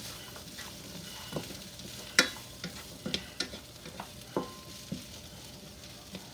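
Onions frying in a pan with a steady sizzle, broken by a series of short clicks and clinks of utensils on dishes, the loudest about two seconds in.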